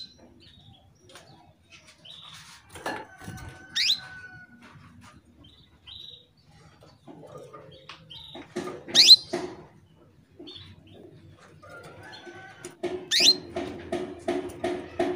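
Female canary calling: a few sharp rising chirps, short high peeps in between, and a fast run of repeated notes near the end. These are the calls of a female in breeding condition, used to stir male canaries into song.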